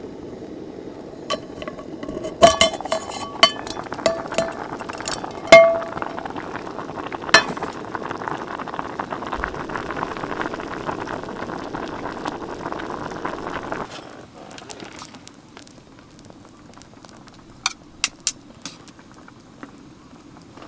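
A one-person hot pot bubbling at a boil, with sharp ringing clinks of utensils against the pot and dishes in the first several seconds. The bubbling drops away about 14 seconds in, leaving a few light clinks.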